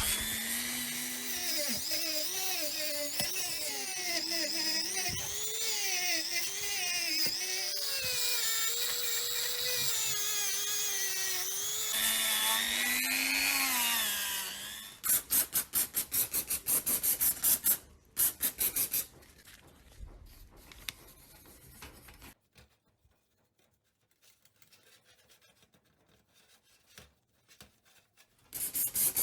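Small handheld rotary tool running against the work, its whine wavering in pitch as the load changes. It stops about halfway through, and rapid back-and-forth rubbing or sanding strokes follow. After a quiet stretch with a few light taps, the strokes start again near the end.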